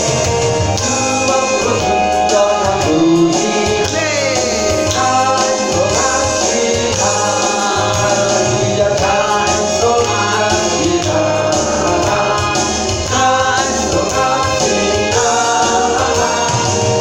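Congregational praise singing: voices singing a worship song together with instrumental accompaniment.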